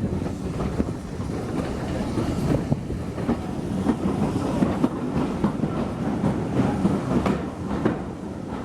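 Railway carriage rolling along the track: a steady low rumble with frequent sharp clicks of the wheels over the rails.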